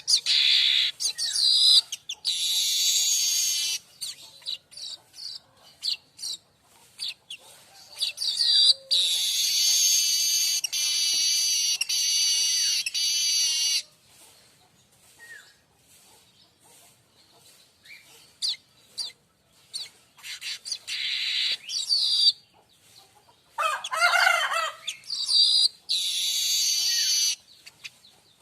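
Streaked weaver (manyar kembang) singing: short high chirps and long, dense, high-pitched song phrases of two to five seconds, with a quiet stretch of several seconds in the middle.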